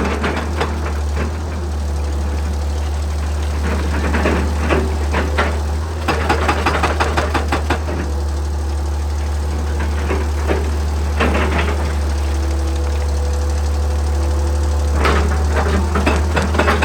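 Excavator diesel engine running steadily, with several bursts of rapid repeated impacts from its hydraulic rock breaker hammering on rock.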